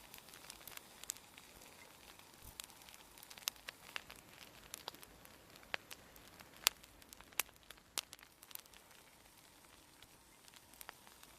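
Wood fire crackling: irregular sharp pops and snaps over a faint hiss.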